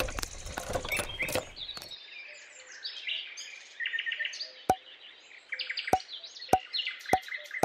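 Background music ends about two seconds in, leaving birds chirping and tweeting. From a little past the middle, short sharp clicks come about every half second to second.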